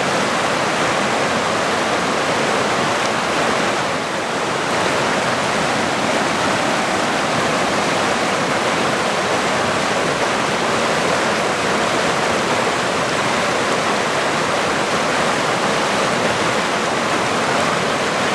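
Fast-flowing water rushing in a steady, loud torrent, dipping briefly about four seconds in.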